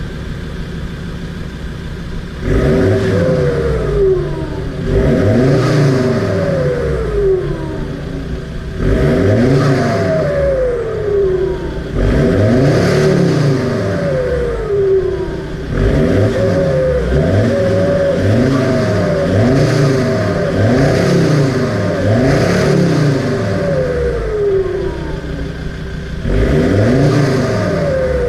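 Ford Ranger PX T6 engine through an HKS aftermarket exhaust, idling and then revved again and again: several long revs that climb and fall back, a quick run of about six short blips in the middle, then more long revs.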